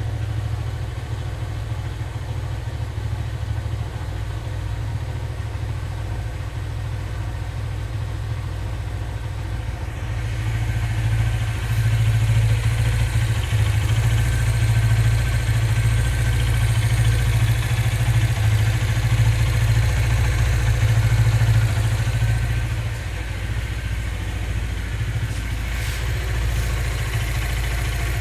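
Hero Honda CBZ motorcycle's single-cylinder four-stroke engine running, with the knocking sound the title names. It gets louder and harsher about ten seconds in and settles back down about five seconds before the end.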